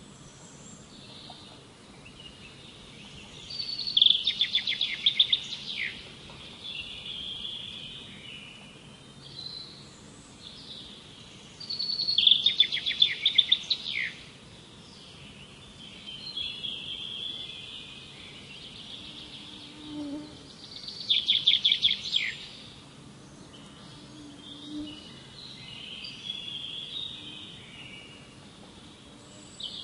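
Wild birds singing. A loud, rapid trilled song comes three times, about eight seconds apart and about two seconds each, with softer chirps and calls between.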